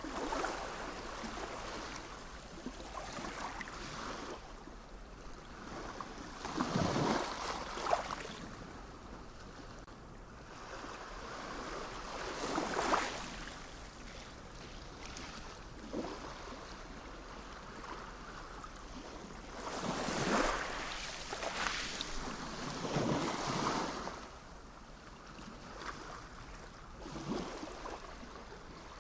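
Sea waves washing in and breaking, a fresh surge every few seconds over a steady rush of water.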